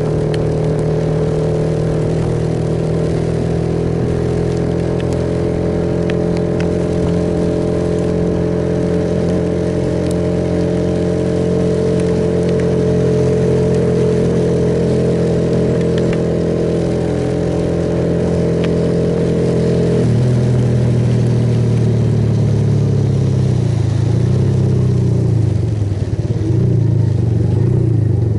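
Suzuki Yes motorcycle engine running steadily at cruising speed over a hiss of rain and road spray. About twenty seconds in, the engine note drops and then wavers up and down as the speed changes.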